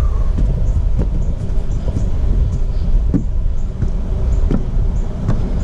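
Footsteps climbing stairs, a short knock roughly every half second, under a heavy low wind rumble on the microphone.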